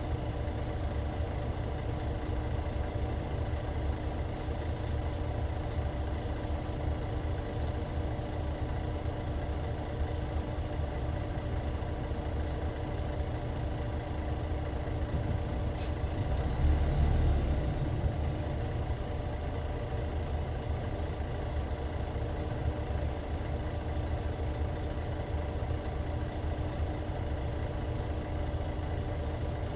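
Hyundai D6CC Powertec 380 six-cylinder diesel engine of a Hyundai Universe Comfort coach, running at a steady speed with a deep low rumble. A click comes about sixteen seconds in, followed by a brief swell in the rumble.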